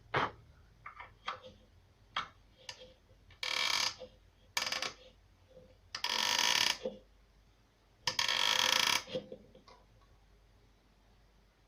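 Four short scraping strokes on wood, with small clicks and knocks between them: hand work on the wooden body of a setar.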